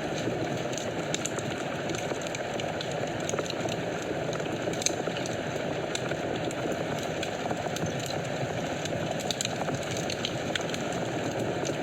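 Wood fire burning in a fireplace: a steady rush of flames with frequent small, sharp crackles and pops.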